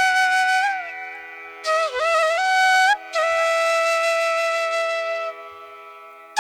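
Background music: a flute playing a slow melody of long held notes with bends between them, over a soft steady drone.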